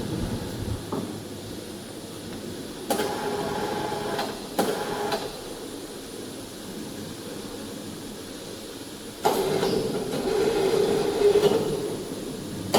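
Heavy machine parts being moved in a workshop: a rolling mechanical rumble, with two short knocks about three and four and a half seconds in, then a louder stretch of rumbling with a steady hum from about nine seconds in.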